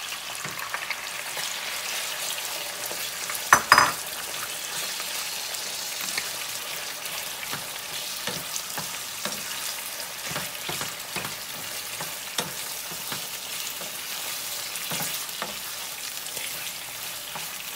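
Raw chicken livers sizzling in hot oil with onions and garlic in a nonstick frying pan, stirred with a wooden spoon that scrapes and knocks against the pan. A sharp clatter about three and a half seconds in is the loudest moment.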